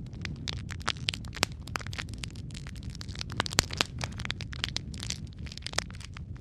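Wood fire crackling in a fireplace: many irregular sharp pops and snaps over a steady low rumble of the flames, a few louder pops about three and a half seconds in.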